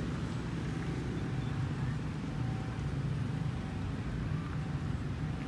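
A steady low engine hum, as of a motor vehicle running nearby.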